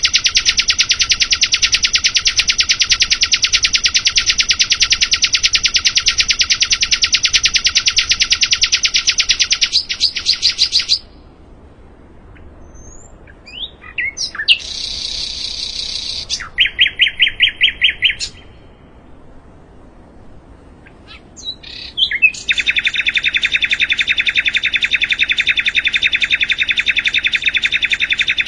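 Sikatan londo songbird singing: a long trill of rapidly repeated high notes held for about ten seconds, a short varied phrase with a quick run of notes partway through, then another long rapid trill near the end.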